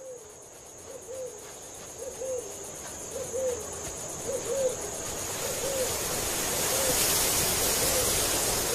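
A bird hooting, a short rising-and-falling hoot repeated about once a second, over a background hiss that grows louder in the second half.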